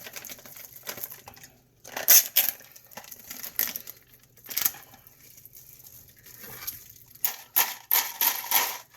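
Ice cubes clinking and clattering in a plastic bag of bought ice as it is handled, with plastic crinkling: scattered sharp knocks, bunched closely together near the end.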